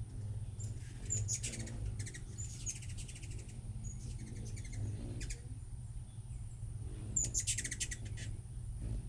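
Hummingbirds calling: short, very high chips and a few rapid chattering trills, the longest near the end, over a steady low hum.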